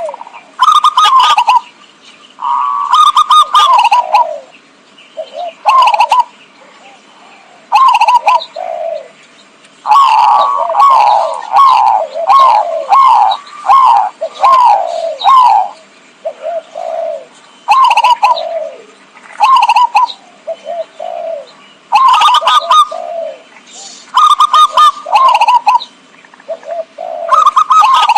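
Zebra dove (perkutut) cooing in a lure-call recording: loud phrase after phrase of rolling coos that step down in pitch, with short pauses between phrases.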